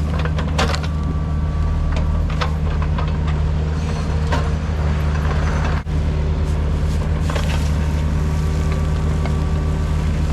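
Mini excavator's diesel engine running steadily under load, with scattered sharp cracks and snaps as its ripper tears through roots and soil.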